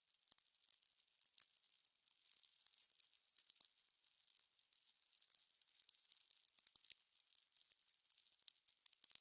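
Fire crackling: a thin, steady hiss with many irregular sharp pops and snaps.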